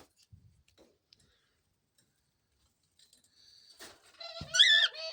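Caged pet bird giving a harsh, warbling threat call as part of a defensive display. The call starts about three seconds in, gets louder toward the end, and is mixed with a sharp click and a low thump.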